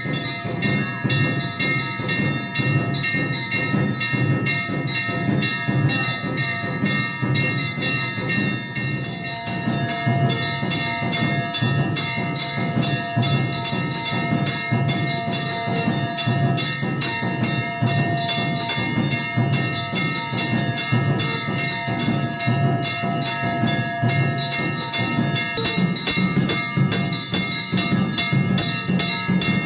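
Temple bells rung rapidly and without pause for the evening aarti, their ringing tones sustained over a dense low din. The striking is continuous and at a steady loudness.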